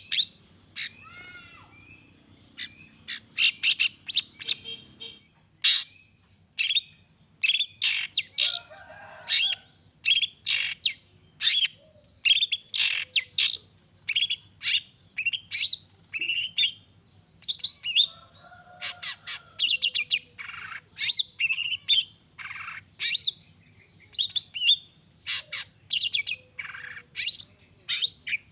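Long-tailed shrike singing actively: a fast, unbroken run of loud, sharp chirps and harsh notes, with a few lower warbled phrases mixed in.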